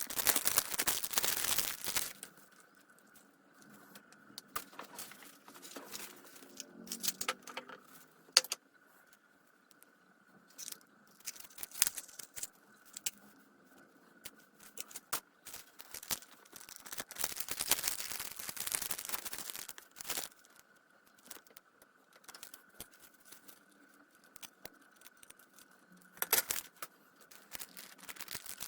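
Hands working on small metal parts of a circular saw: scattered clicks and clinks, with longer scraping passes at the start and about two-thirds of the way through. A faint steady high hum sits underneath.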